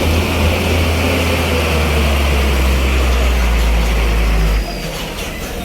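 Heavy truck's diesel engine running under load on a steep climb, a steady low drone that drops away sharply near the end.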